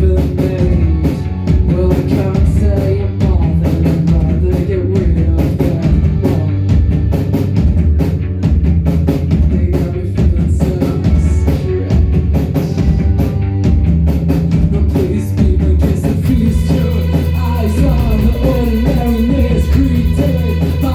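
Live post-punk rock band playing loud: drum kit, bass and guitar in an instrumental passage, the texture changing about three-quarters of the way through.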